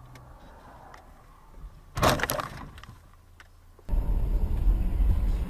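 A short, loud bang of a car collision about two seconds in, with breaking and cracking. From about four seconds in, the steady low rumble of a car driving.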